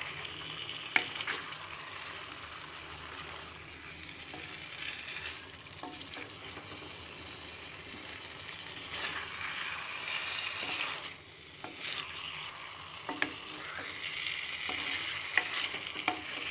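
Elephant foot yam cubes and spiced tomato masala sizzling in oil in a pan while a spatula stirs and mashes them, with scattered clicks of the spatula scraping and knocking against the pan.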